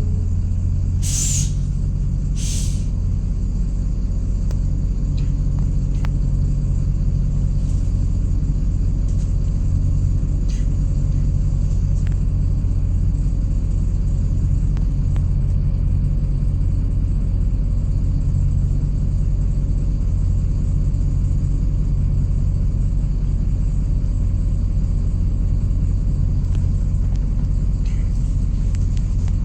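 MAZ-103 city bus heard from inside while riding: a steady engine and road rumble, with two short hisses of compressed air from the bus's pneumatic system about a second and two and a half seconds in.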